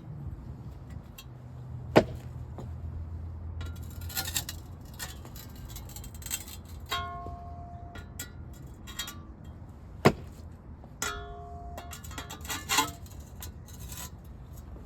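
Patio pavers being shifted and knocked together to close up the joints: scattered scrapes and clinks, two sharp loud knocks about two seconds in and again near ten seconds, and two short ringing clinks in between.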